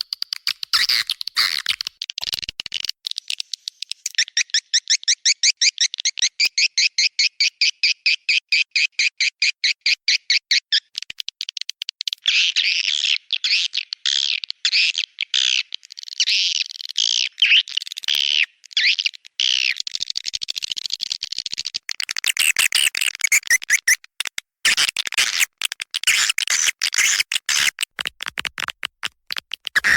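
Swiftlet call played as a lure for swiftlet houses: high, rapid chirping and twittering. It starts as dense, clicky chirps, settles about four seconds in into an even run of about eight chirps a second, breaks into looser twittering, and turns dense and rapid again near the end.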